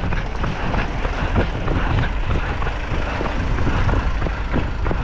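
Running footsteps on the road, a quick run of short knocks, under a heavy low rumble of wind buffeting the microphone.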